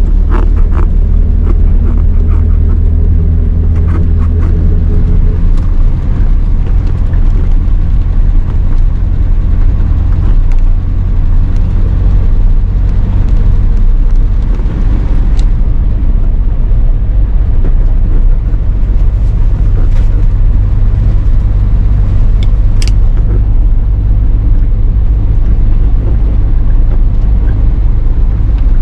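Car driving along, heard from inside the cabin: a steady low rumble of engine and road noise, with a few brief faint clicks.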